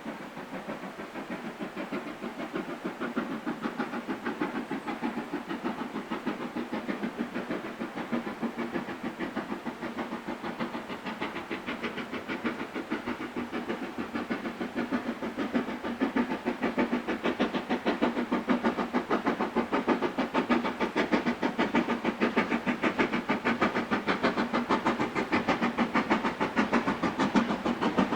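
Steam locomotive working a train, its exhaust beats coming quickly and evenly and growing steadily louder as it approaches.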